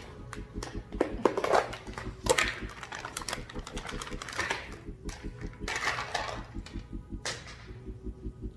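Kitchen handling noise: a handful of sharp clatters and rustles of dishes, utensils or packaging. Under them runs background music with a steady low beat.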